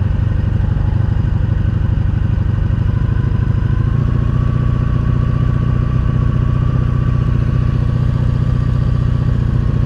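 1983 Honda Sabre VF750S's liquid-cooled 750 cc V4 engine idling steadily, its firing pulses low and even.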